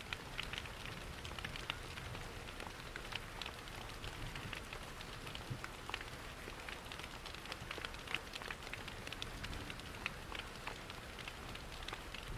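Layered rain-and-fireplace ambience: a steady rain hiss with frequent small sharp crackles and drips over a low steady rush.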